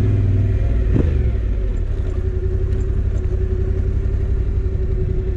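Motorcycle engine running at a steady pitch, with a heavy low rumble underneath.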